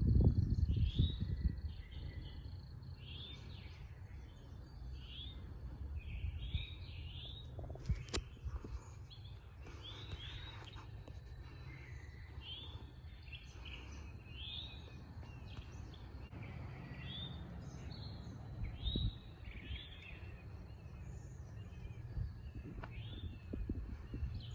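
Songbirds singing, short chirping phrases coming every second or so, over a low rumble that is strongest in the first second or two.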